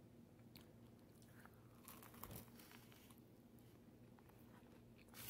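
Near silence with faint crunching and chewing as a red velvet macaron is bitten and eaten, most audible about two seconds in, and a brief louder click near the end.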